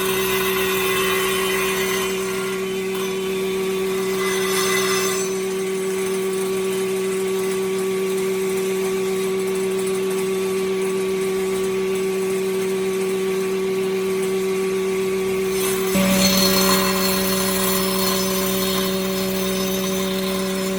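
Combined woodworking planer with a carbide-tipped circular saw blade running with a steady motor hum, cutting wood. About 16 seconds in it gets louder, with a higher tone joining and more cutting noise.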